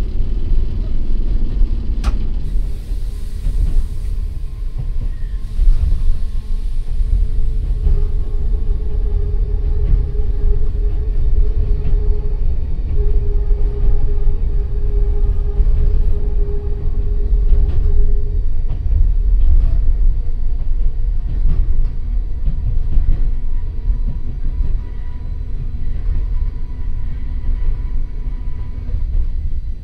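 Enoden 1000-series train running, heard from inside the car: the heavy rumble of its nose-suspended traction motors and wheels on the rails. A sharp click comes about two seconds in, and a steady motor hum stands out for about ten seconds in the middle.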